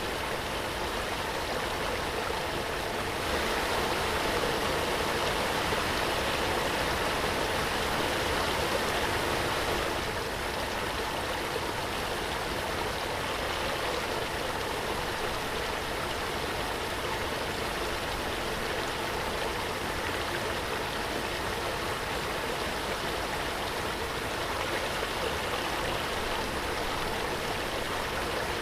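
Waterfall: a steady rush of falling water, a little louder from about three seconds in until about ten seconds.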